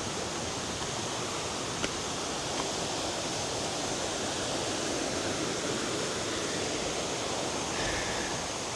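Waterfall, a steady even rush of falling water. A faint high steady tone runs above it, with a couple of small clicks about two seconds in.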